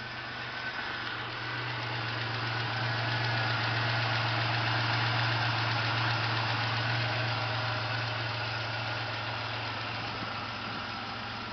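1987 Buick Grand National's turbocharged 3.8-litre V6 idling steadily, getting somewhat louder midway and easing back toward the end.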